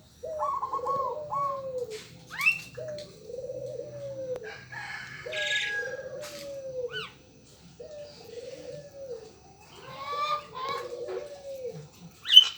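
Puter doves cooing: a low coo repeated about every two seconds, about six times, with short higher-pitched chirps from other birds in between. A brief loud sound comes near the end.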